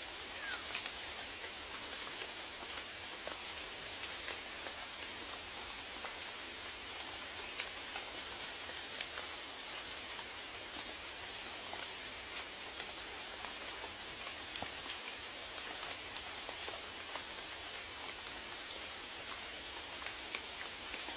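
Steady rain, with many individual drops ticking sharply against the even hiss.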